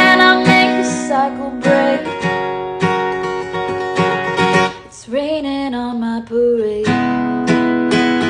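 Acoustic guitar strummed in regular strokes, in an original acoustic song. About five seconds in the guitar drops out while a woman's voice sings a short held phrase, then the strumming comes back in.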